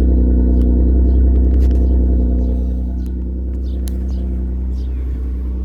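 2004 Mercury Sable's 3.0-litre V6 idling steadily after a cold start through an aftermarket performance exhaust, with a deep, even drone. The level eases down slightly about two and a half seconds in.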